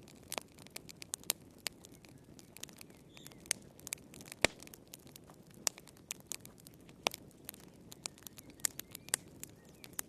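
Wood fire crackling in a fireplace: irregular sharp pops and snaps over a soft low hiss, with one louder pop a little before the middle.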